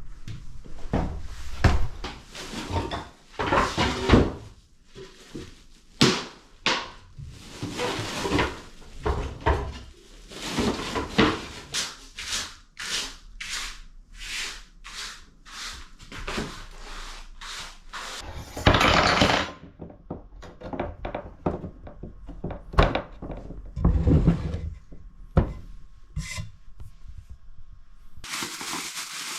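Wooden knocks, thuds and scraping of board-fitting work as boards and timber are handled and fixed, with a run of even knocks about two a second in the middle and a short burst of noise about two-thirds through.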